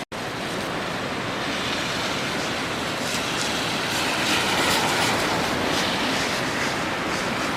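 Rough surf left by a passing typhoon, breaking on a beach in a continuous roar of waves. It swells a little louder about halfway through.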